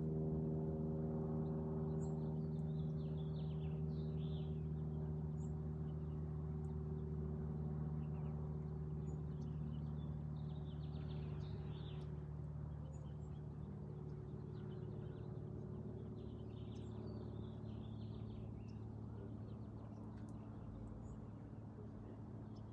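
Small bird chirping and twittering in short clusters, three times, over a steady low hum that slowly fades.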